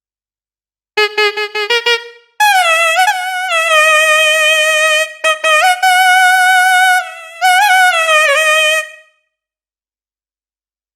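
Sampled solo wind instrument from an Indian instrument library playing a phrase. It starts about a second in with a few short, quick repeated notes, then moves to long held notes with slides and vibrato, and stops about nine seconds in.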